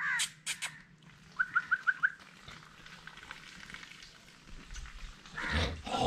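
Birds calling in the background: a few sharp calls at the start, then a quick run of five short, evenly spaced notes. Near the end comes a louder burst of rustling noise.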